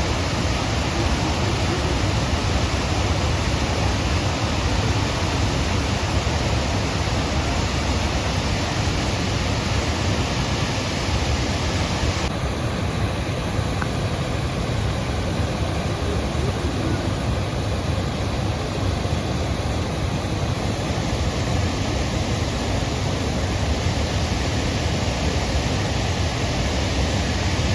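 Pykara waterfall rushing: a loud, steady wash of falling water, turning a little duller about twelve seconds in.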